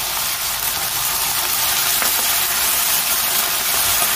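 Pork slices sizzling in a hot wok as a bowl of seasoning sauce is poured in and stirred with a wooden spatula; a steady hiss.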